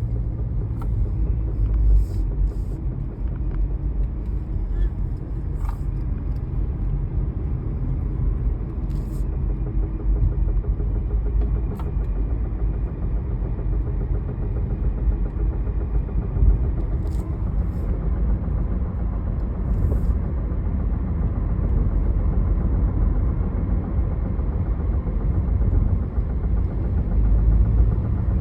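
2016 Subaru Crosstrek on the move with a steady low rumble, broken by several sharp knocks at irregular intervals. It is a knock that new CV axles, ball joints and wheel bearings have not cured.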